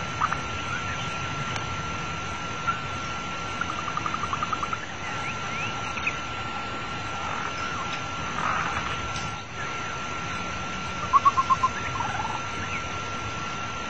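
Animal calls: a rapid run of short clipped notes, about nine in a row about four seconds in and five more near the end, with a few faint chirps in between. They sit over a steady high tone and an even background hiss.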